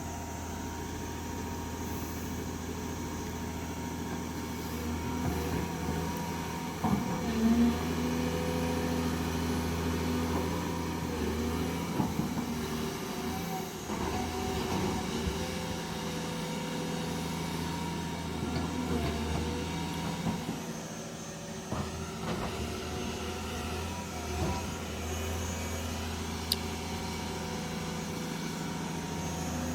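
Excavator's diesel engine running steadily, with a few short knocks and clanks from the work.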